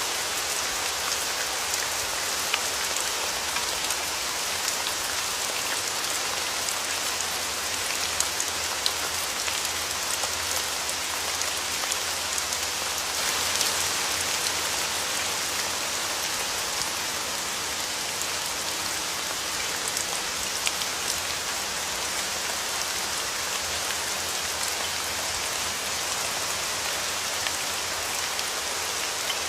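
Steady rain falling, an even hiss with scattered sharper drop ticks and a slight swell about halfway through.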